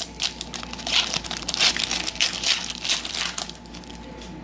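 Plastic wrapper of a trading-card pack crinkling and crackling as it is handled and torn open. The crinkling stops about three and a half seconds in.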